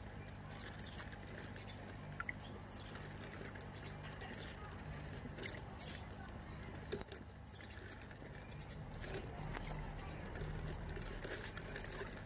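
A bird calling repeatedly outdoors, short high chirps about every one to two seconds, over a steady low hum.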